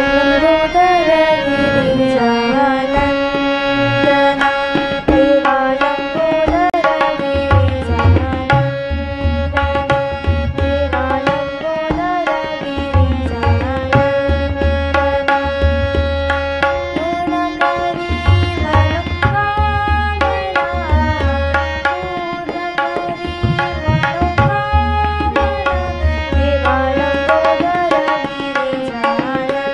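Marathi bhajan music: a bending melody over a steady held drone note, with tabla playing throughout. Deep bass strokes from the tabla come in about seven seconds in.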